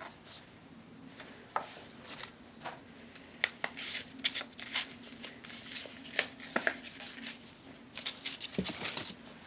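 Sheet of paper being handled and folded: irregular crinkling, rustling and sharp creasing snaps, over a faint steady hum.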